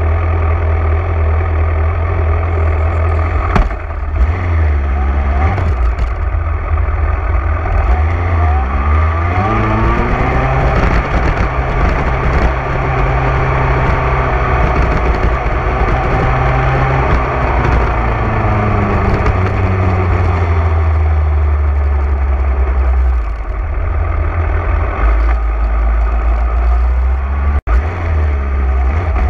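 Motorcycle engine running while riding, its pitch rising and falling with throttle and gear changes. The sound breaks off for an instant near the end.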